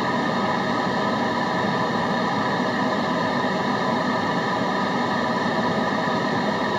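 Steady white-noise hiss, even and unchanging, with faint steady tones running under it.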